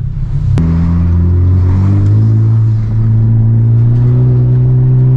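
Honda Civic Type R's turbocharged four-cylinder engine heard from inside the cabin, pulling away at low revs, its note stepping up slightly about two seconds in. A sharp click comes about half a second in.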